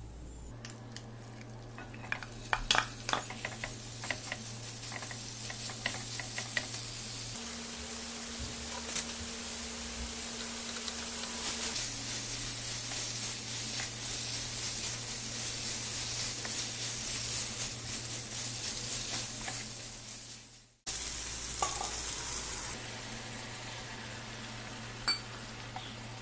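Chicken pieces sizzling as they fry in a hot pan on high heat, with a spatula scraping and clicking against the pan as they are stirred. The sizzle cuts off abruptly about three quarters of the way through, then carries on more softly, over a low steady hum.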